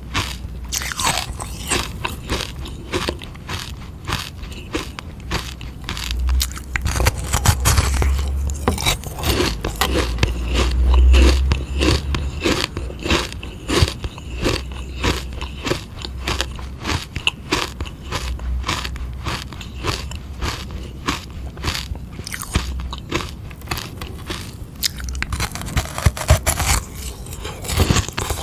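Someone biting and chewing a hard sugar-water ice pop: a dense, continuous run of sharp crunches and crackles, several a second.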